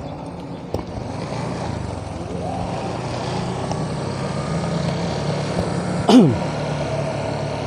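Steady road-traffic noise heard while cycling, with a short, loud falling-pitched sound about six seconds in.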